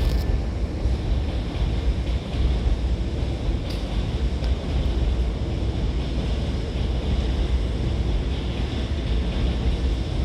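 Steady low rumbling background noise of a large railway terminal platform, with no train, announcement or other distinct event standing out.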